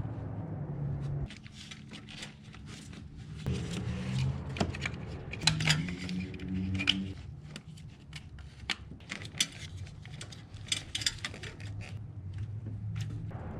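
Irregular clicks and light clatter of hard parts and tools being handled during engine work, over a low steady hum.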